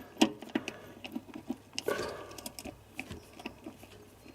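Irregular metallic clicks and clinks of a spanner working a drain plug on the underside of the van's 1600cc engine, with a louder clink about two seconds in.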